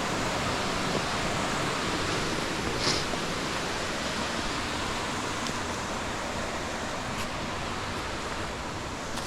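Steady rushing of river water over rocks. A single faint tap comes about three seconds in.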